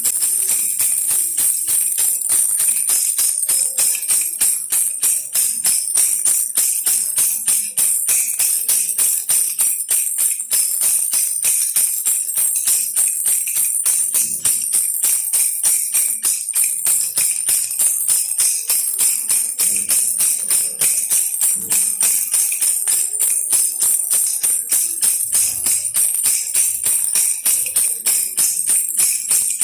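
Baby rattle toy shaken continuously in a steady rhythm, a bright, high rattle repeating a few times a second.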